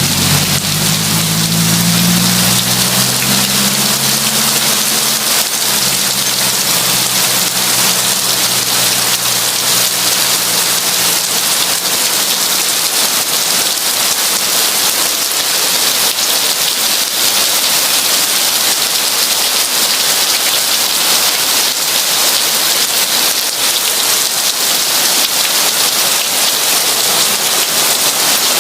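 Heavy rain falling steadily in a dense, even hiss. At the start a low droning hum with several pitched tones, like an engine, fades away over the first ten seconds or so.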